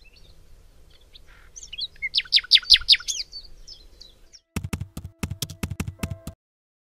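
Garden birds singing, with a quick run of about six clear, falling whistled notes, followed by a rapid series of about nine sharp taps that stop suddenly.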